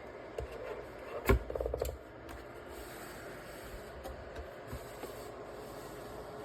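Steady fan hiss of a small PTC space heater running. Over it, about a second in, comes one loud sharp click followed by a quick rattle of smaller clicks, like the heater or its controls being handled.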